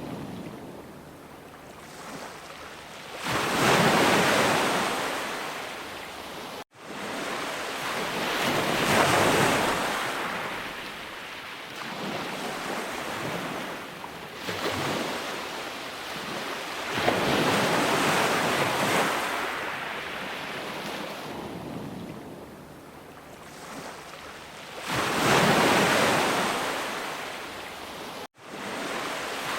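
Sea waves breaking and washing on the shore, swelling and fading every several seconds. The sound cuts out for an instant twice: once about seven seconds in and once near the end.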